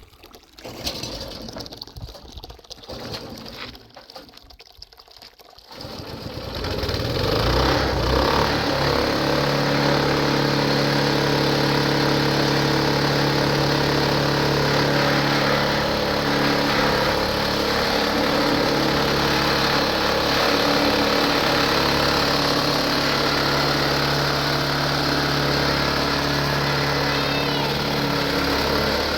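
Tractor engine starting about six seconds in and then running at a steady speed.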